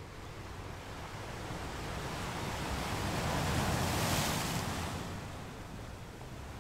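Wind and choppy sea water washing, swelling to a peak about four seconds in and then fading.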